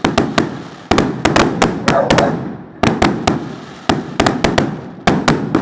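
Fireworks going off: clusters of sharp bangs and crackles, a new volley about every second, each dying away before the next.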